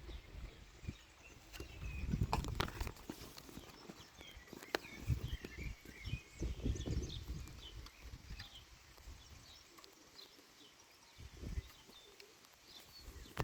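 Outdoor ambience under a thunderstorm: many short, high bird chirps, broken by intermittent low rumbling bursts a couple of seconds in, around the middle and near the end.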